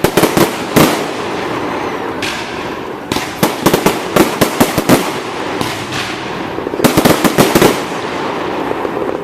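Fireworks going off: clusters of sharp bangs and crackles, one group right at the start, a dense run of rapid reports from about three to five seconds in and another burst of them around seven seconds, over a steady background hiss of crowd and crackle.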